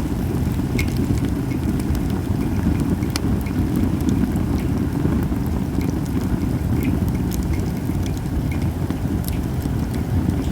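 Japanese cedar (sugi) campfire crackling, with sharp pops scattered irregularly through a steady low rumble.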